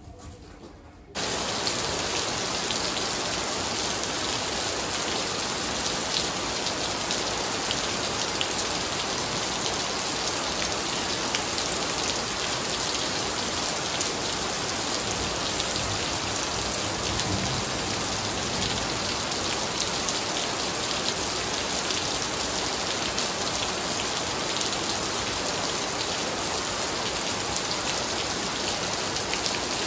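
Heavy downpour of rain hammering onto a wet tiled patio, a dense steady hiss and patter of drops splashing on the tiles. It starts suddenly about a second in.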